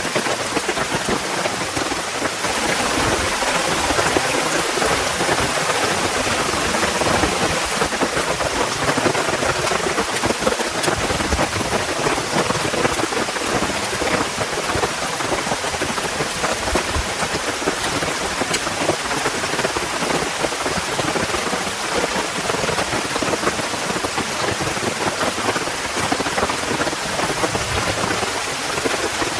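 Heavy rain falling steadily, a dense even hiss with many fine drop ticks.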